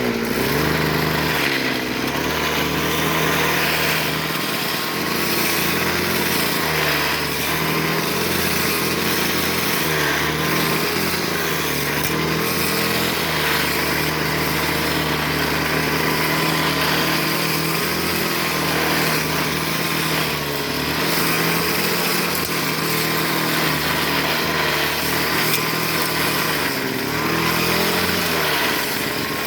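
Brush cutter with a metal blade cutting tall brush: the engine runs steadily, its pitch dropping about a second in, holding lower through most of the stretch, and rising again near the end.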